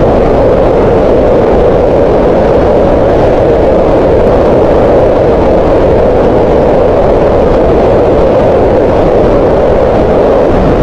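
Green noise: a steady, unchanging hiss centred on the middle range around 500 Hz, with little treble.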